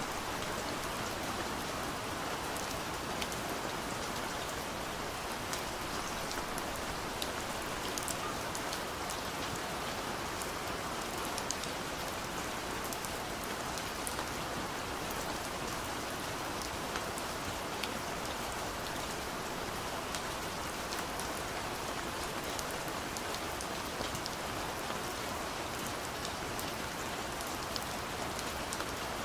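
Steady soft rain pattering on a window pane, with scattered individual drop ticks over an even hiss.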